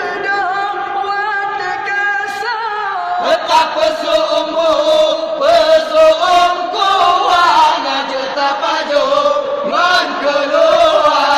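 Young men singing a sahur wake-up chant, a wavering, drawn-out melody. About three seconds in the singing becomes louder and fuller.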